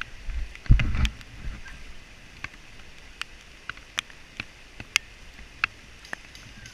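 Footsteps through dry leaf litter and brush: a couple of heavier steps about a second in, then scattered sharp snaps and crackles of twigs at irregular intervals.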